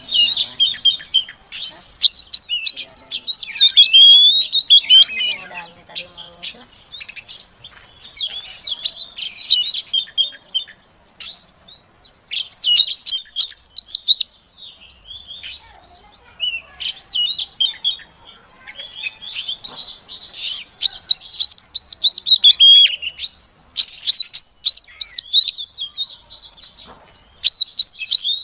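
Female oriental magpie-robin calling: a rapid chatter of high chirps and whistles in bursts with short pauses between them. This is the female's call to a male.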